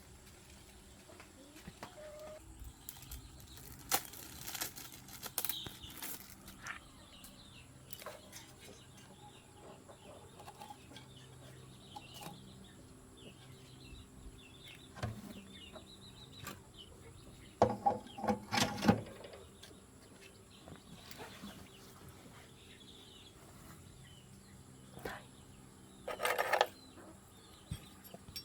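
Scattered metallic clinks and knocks of hand tools at work on an engine that is not running, loudest in a cluster about two thirds of the way through and again near the end, with chickens clucking faintly in the background.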